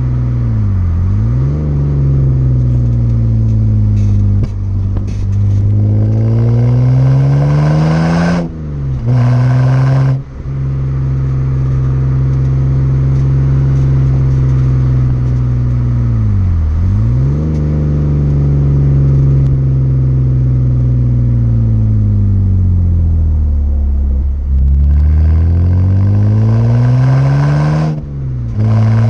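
BMW 330i inline-six running through a Rogue Engineering aftermarket exhaust while being driven. The engine note climbs slowly for several seconds at a time, then dips sharply and climbs again a few times, as at gear changes.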